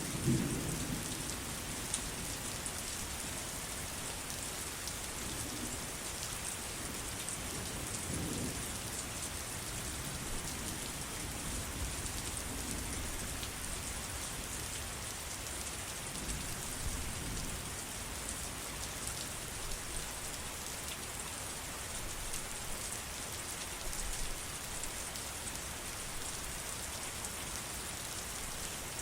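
Steady heavy rain falling with a constant hiss. Low rumbles of thunder come through at the start and a few more times.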